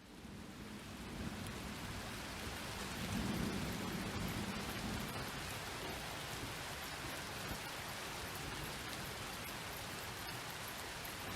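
Steady rain falling, swelling up over the first second, with a low rumble of thunder about three seconds in.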